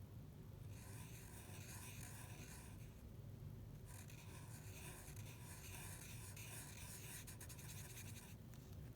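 Faint scratching of a drawing tool on paper: a stretch of drawing strokes lasting about two seconds, a short pause, then about four and a half seconds more, over a low steady hum.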